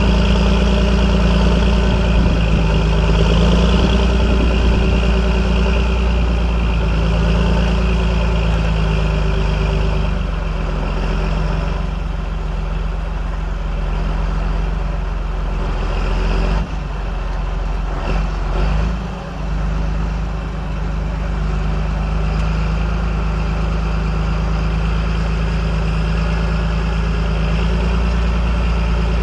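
John Deere 8420 tractor's six-cylinder diesel engine running steadily, with a short dip and wobble in the sound a little past halfway.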